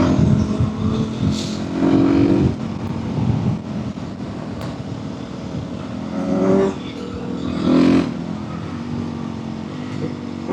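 Motorcycle engine running on its stock exhaust under riding load, heard from a helmet mic. The throttle opens and eases off several times, with loud surges about two, six and a half and eight seconds in.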